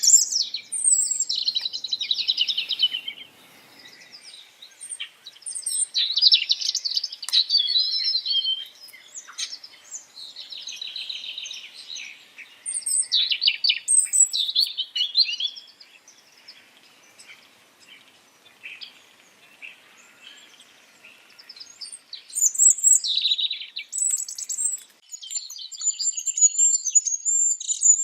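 Small cage birds chirping and singing in quick high trills, coming in bouts with a quieter lull in the middle.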